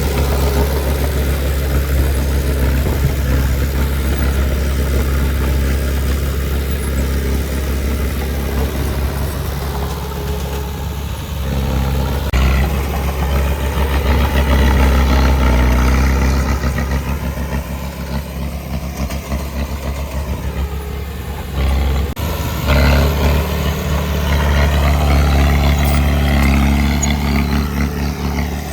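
Heavy diesel engine of earthmoving machinery running steadily, its level swelling and easing with the work, with a brief sharp drop about 22 seconds in before it picks up again.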